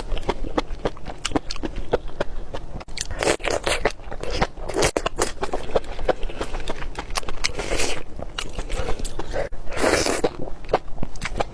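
Eating sounds: food being bitten and chewed, with many crisp clicking crunches and a few louder bursts about 3, 5, 8 and 10 seconds in.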